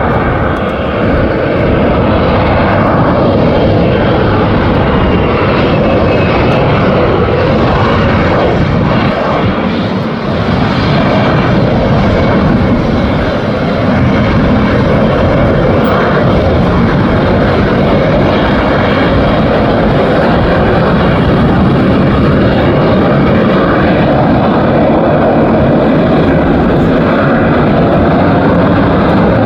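AV-8B Harrier's Pegasus turbofan jet engine, a loud, steady roar that swells in the first second, dips briefly around ten seconds in, then holds.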